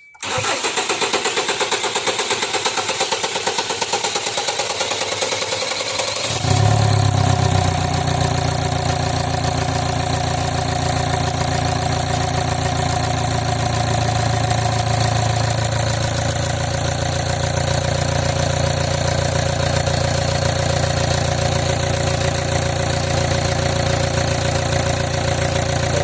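2016 Kia Sorento's diesel engine cranked by the starter for about six seconds, then catching and idling steadily. It is being started with a newly fitted injector to cure its hard starting.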